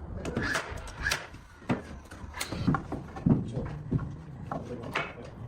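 Wooden trim pieces being handled and fitted around a window frame: a run of irregular wooden knocks and clicks over a low steady rumble.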